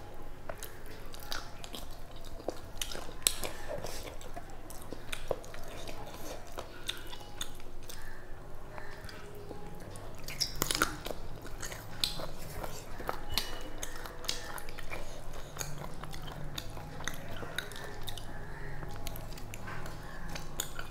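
Close-miked wet chewing and mouth clicks of a person eating rice and curry by hand, with scattered sharp clicks from fingers mixing rice on a steel plate.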